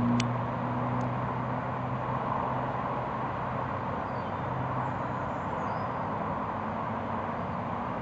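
Low steady hum of a distant engine over a constant outdoor background noise; the hum fades about three seconds in. A few faint bird chirps.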